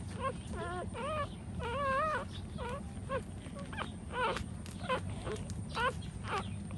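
Young puppies whimpering and squealing: a rapid string of short, wavering, high-pitched cries, some overlapping, over a steady low hum.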